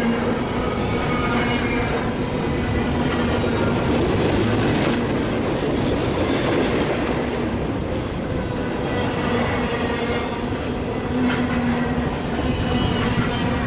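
Double-stack container freight train rolling past close by: a steady rumble of wheels on rail. Wheels squeal at several high pitches about a second in and again about ten seconds in.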